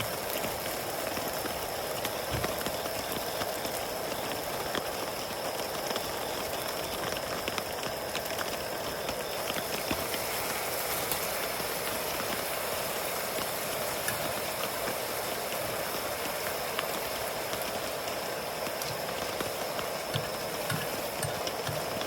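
Steady rain falling, with many small drop ticks, over a constant high-pitched insect trill.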